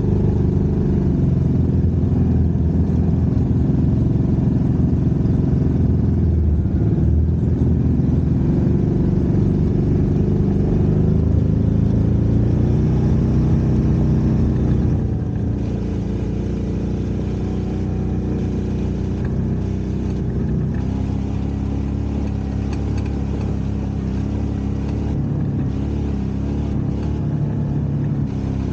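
Off-road vehicle engine running as it drives along, its note dipping and rising again. It settles a little quieter and steadier about halfway through.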